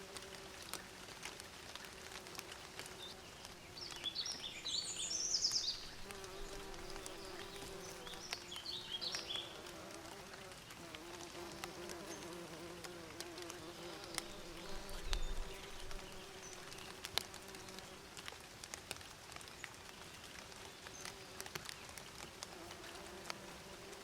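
Bees buzzing steadily, the hum wavering in pitch. A bird chirps twice, in short bursts of high notes, about four and eight seconds in.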